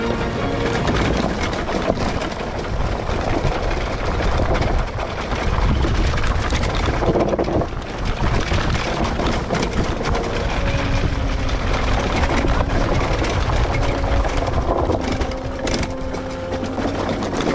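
Small two-stroke dirt bike engines, 50cc bikes kitted out to 70–80cc, running under way with the revs rising and falling.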